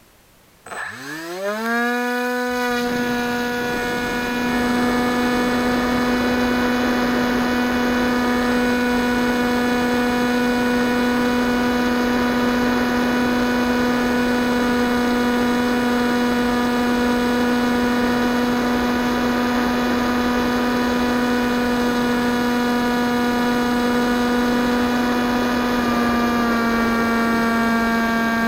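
Electric motor and propeller of a Multiplex EasyStar 2 model plane spinning up about a second in, rising quickly to a steady whine. The whine holds at one pitch and drops slightly near the end.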